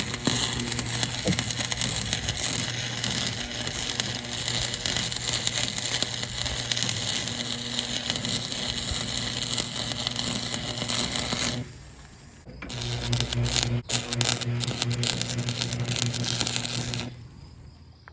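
Wire-feed welder laying two beads: a steady crackling sizzle with a low electrical hum, stopping about twelve seconds in, starting again a second later, and stopping about a second before the end.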